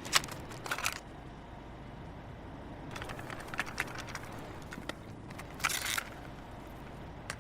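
Low, steady hum with scattered faint crackles and clicks, in a gap between songs with no music playing.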